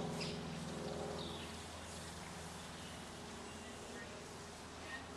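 A low buzzing hum that fades over the first second or two, with a few short, faint bird chirps.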